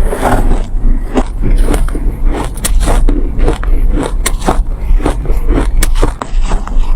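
Close-miked biting and chewing of refrozen soft ice: a steady run of sandy crunches, several a second, over a constant low hum.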